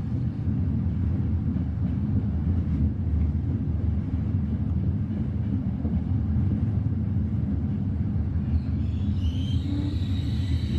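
Steady low rumble of an Intercity Notte passenger train running, heard from inside the carriage. Faint high squeals creep in near the end.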